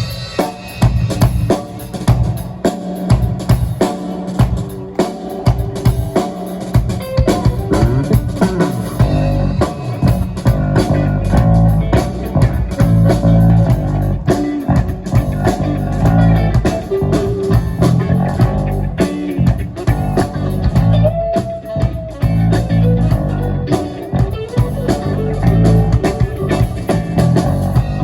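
A live rock band playing with electric guitars, bass guitar and a drum kit keeping a steady beat.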